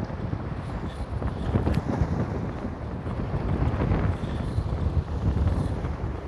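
Strong wind buffeting the microphone, a deep uneven noise that swells and dips with the gusts, over sea waves washing against rocks.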